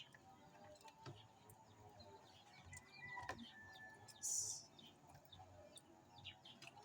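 Near silence, with faint bird chirps, and a brief hiss a little over four seconds in.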